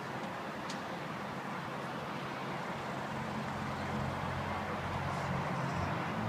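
A car engine running and drawing closer, its low engine note growing steadily louder over a background of outdoor traffic noise.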